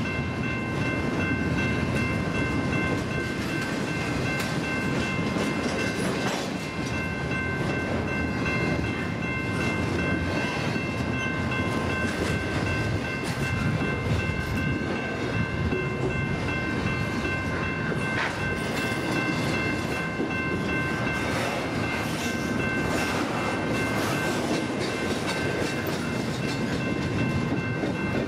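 Double-stack intermodal container train rolling past: a steady rumble and rattle of wheels on rail and the passing well cars, with a few steady high-pitched tones held over it.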